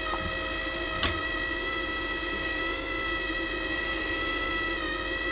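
MIG welder's wire-feed motor running with a steady whine, pushing newly loaded wire through the gun lead; a single click about a second in.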